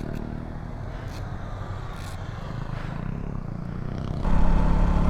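KTM Duke 200's single-cylinder engine running under light throttle, then louder as the rider opens the throttle about four seconds in, with a thin steady whine over it. The rider blames the noise on a chain and sprocket set that is almost worn out and makes a lot of sound.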